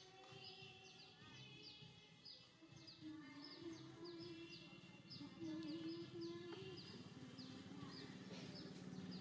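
Faint background birdsong: a steady series of short, high, falling chirps, about two a second. A fainter wavering lower tone comes and goes in the middle.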